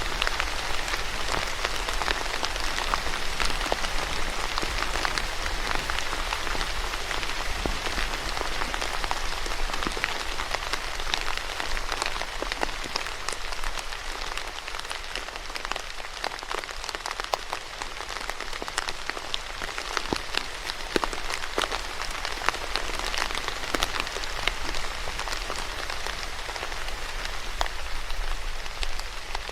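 Steady rain pattering on a surface, with many separate drops ticking throughout and a low rumble underneath.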